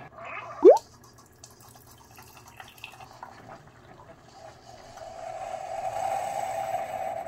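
Keurig single-cup coffee maker brewing: a short loud rising whine about a second in, then coffee streaming into a ceramic pitcher, the pouring sound growing louder from about five seconds in.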